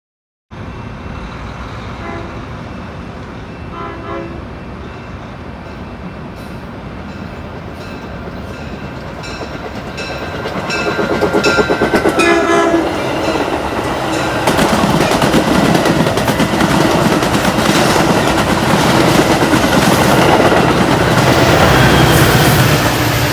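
Metra commuter train approaching, its horn sounding in short blasts about four seconds in and again around twelve seconds in. The rail and train noise then swells and stays loud as it comes through.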